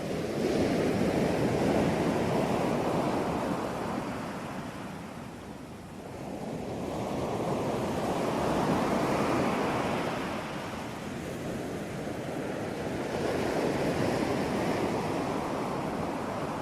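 Ocean waves breaking and washing ashore, rising and falling in three slow swells about six seconds apart.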